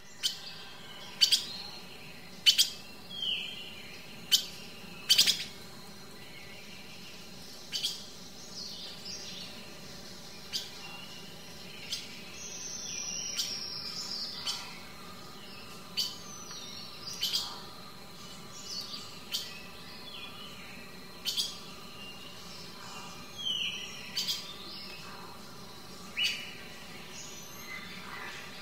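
Small songbirds chirping: short, sharp calls every second or two, with a few downward-sliding whistles.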